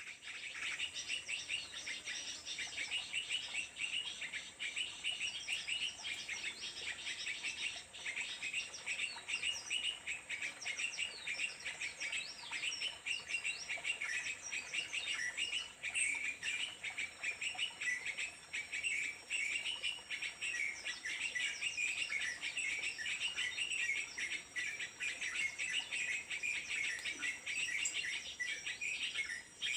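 Small birds chirping in a fast, unbroken twitter, with a steady high insect drone behind it.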